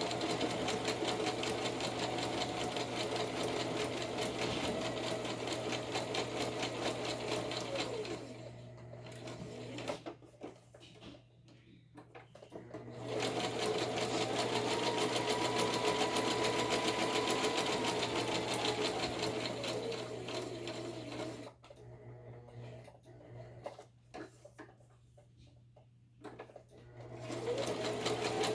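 Electric sewing machine stitching a zigzag stitch in three runs, its motor whine rising in pitch as it speeds up and falling as it slows to a stop. Between the runs come pauses of a few seconds with small clicks.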